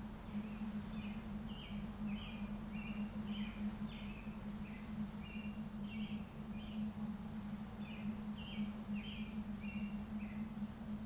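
A small bird singing a string of short, clipped chirping notes, about two or three a second, in two phrases with a short pause about seven seconds in. A steady low hum runs underneath.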